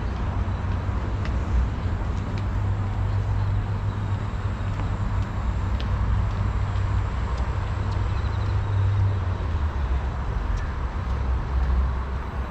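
Steady outdoor background noise with a strong low rumble, easing slightly about three quarters of the way through, and a few faint ticks.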